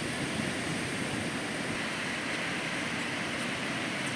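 Ocean surf breaking and washing on a sandy beach, a steady even rush of water.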